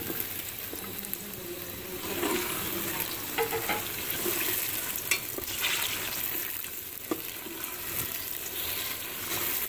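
Tomatoes and sliced onions frying in hot oil in a pressure cooker, sizzling steadily while a spoon stirs them, clinking against the pot a few times.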